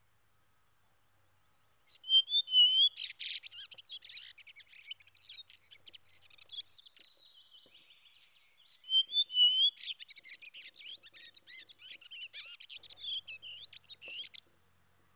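Songbird singing in two long phrases of rapid, high chirps and trills, starting about two seconds in and again about nine seconds in, each loudest at its start.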